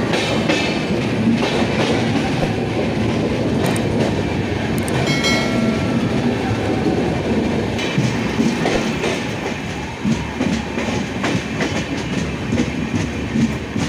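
Indian Railways passenger train running at speed, heard from an open coach doorway: a steady rumble with wheels clattering over the rail joints. A brief high tone sounds about five seconds in. The enclosed tunnel sound opens out about ten seconds in as the train leaves the tunnel.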